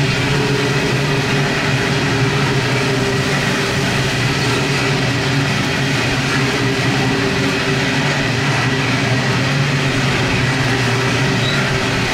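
Coal hopper wagons of a long freight train rolling past: a steady rumble of wheels on rail with a low, even hum.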